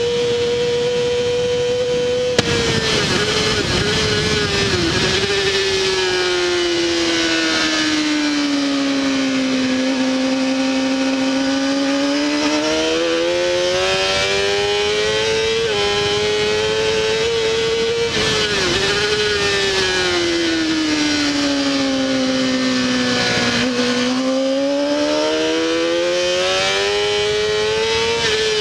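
Honda CBR600RR inline-four engine at racing revs, heard from on board. It holds high revs, then the pitch falls through downshifts with quick blips under braking and climbs back up as the bike accelerates out. This happens twice, with a steady wind rush throughout.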